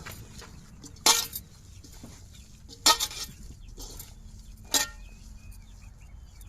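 Four sharp clinks against a dish, about a second apart, while boiled fish is crumbled into it, over a low steady hum.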